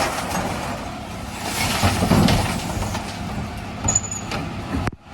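Dennis Elite 6 refuse lorry working a recycling round: its engine and body machinery run with uneven rattling noise, and a brief high squeal sounds about four seconds in. The sound drops away abruptly just before the end.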